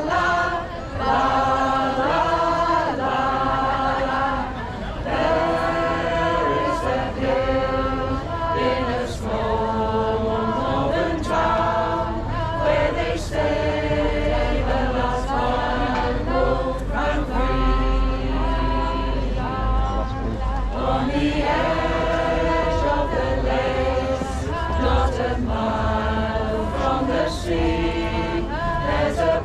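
A choir singing in harmony, holding sustained chords that shift every second or two.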